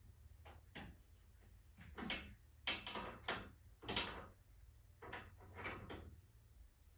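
Irregular clicks and knocks, a dozen or so, the loudest clustered around the middle: hand tools and garage door torsion spring hardware being handled.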